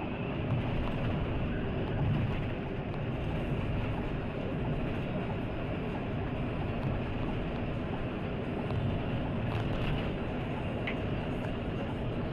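Steady road noise of a bus travelling at speed: a low, even rumble of engine and tyres with wind hiss, and a few faint clicks near the end.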